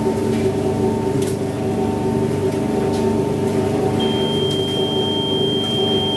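IPSO 25 lb commercial washing machine running a hot wash: a steady machine hum, with a high thin tone joining about four seconds in and holding steady.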